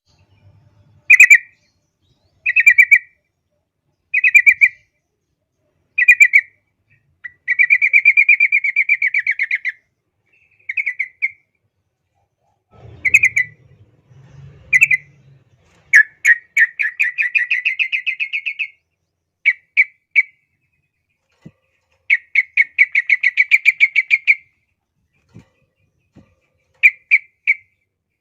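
Yellow-vented bulbul (trucukan) singing steadily: short bubbly phrases every second or two, broken up three times by long, rapid chattering runs of notes lasting two to three seconds each.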